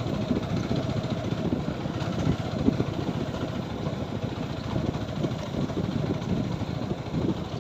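A TVS Apache 4V motorcycle's single-cylinder engine running steadily under way, with the constant rumble of riding.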